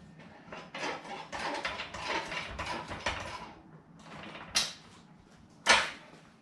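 Metal parts and tools clattering and rattling for a few seconds, then two sharp metallic clanks about a second apart.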